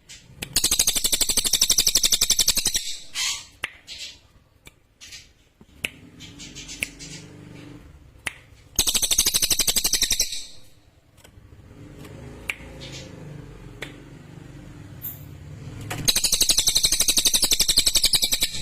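Cililin songbird singing, clear and sharp: three long, loud, very rapid high trills of about two seconds each, with short single chirps between them.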